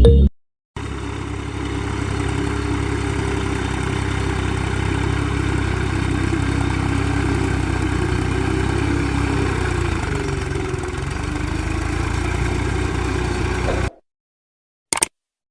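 A truck engine idling steadily, then cutting off suddenly near the end.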